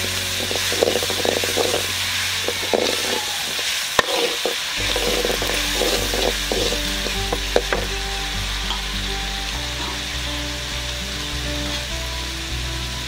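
Onions and green chillies sizzling in hot oil in a black kadai, stirred with a metal ladle that scrapes and clicks against the pan, with one sharp click about four seconds in.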